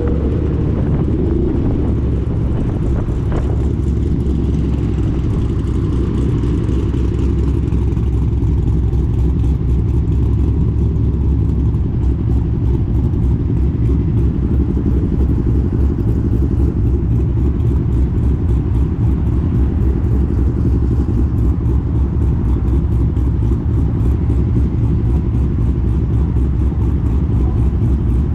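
Motorcycle riding at a steady speed: a steady, loud low rumble of engine and road noise, with no sharp changes in revs.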